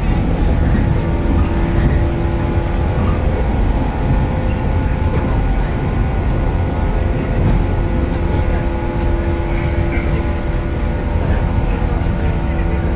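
A moving electric train heard from inside the passenger carriage: a steady running noise, mostly a deep rumble, with a few faint steady whining tones held throughout.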